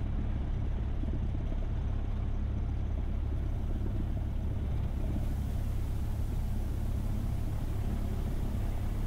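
Cessna 172SP's four-cylinder Lycoming engine running steadily at low power, heard from inside the cabin as an even, low drone.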